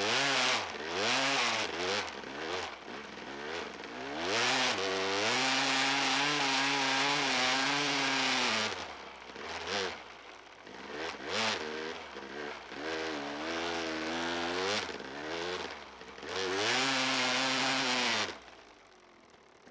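KTM EXC 250 two-stroke enduro engine revving hard, its pitch climbing and falling again and again with throttle and gear changes. It is held at high revs for about three seconds midway and again near the end, then the throttle is shut and it drops to a quiet coast.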